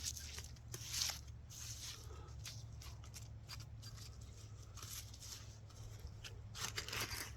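Soft scraping, crumbling and rustling as a plug of wet soil is handled and broken apart by gloved hands while searching it for metal targets.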